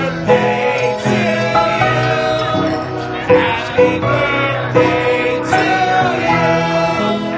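Music of voices singing together in held, wavering notes that change about once a second, over sustained chords.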